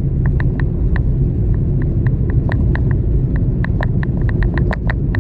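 Car driving, heard from inside: a steady low road rumble with frequent short, irregular ticks and clicks over it.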